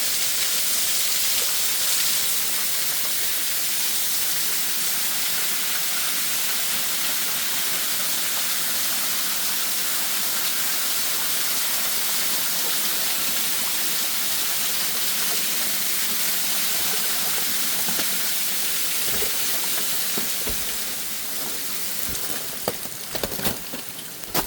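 Waterfall rushing: a steady hiss of falling water, which grows fainter over the last few seconds, when a few sharp knocks come in.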